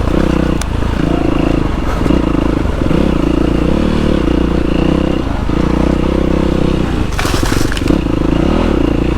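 Dirt bike engine running while riding, its note breaking off briefly several times and picking up again. A short rushing noise comes in about seven seconds in.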